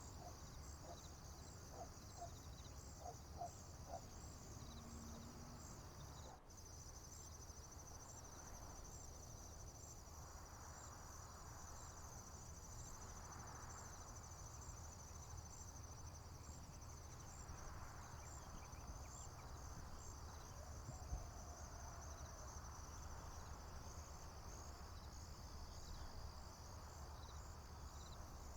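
Faint field ambience of crickets chirping steadily in a high-pitched band, with a low steady rumble underneath. A few short bird notes come in the first few seconds.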